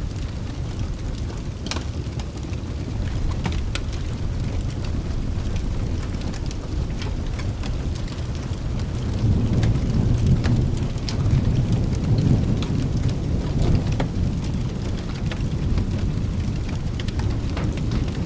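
Steady rain with a low rumble of thunder that swells about halfway through and then eases off, over scattered sharp clicks.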